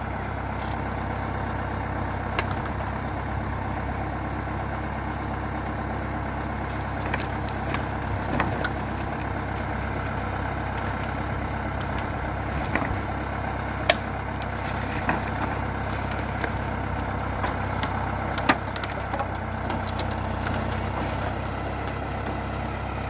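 Valmet 705 tractor's diesel engine running steadily, with a few sharp knocks scattered through, the loudest about two-thirds of the way in.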